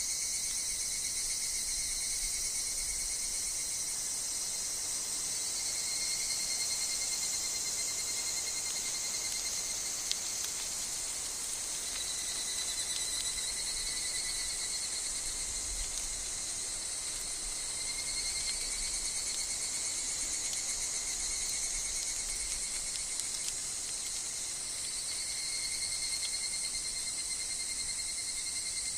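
Dense, steady chorus of insects, with higurashi (evening cicadas) among them, many calling at once in high overlapping trills that swell and fade in places.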